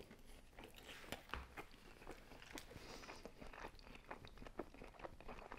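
Close-miked chewing of a crispy thin-crust pizza slice: faint, irregular crunches and crackles as the crust is chewed.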